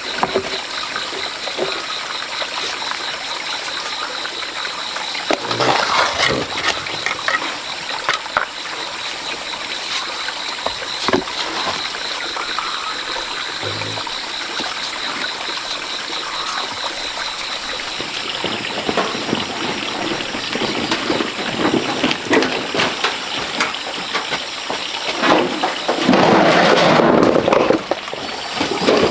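Water running steadily, with a steady high pulsing tone above it and scattered sharp knocks. Near the end there is a louder rushing burst lasting about two seconds.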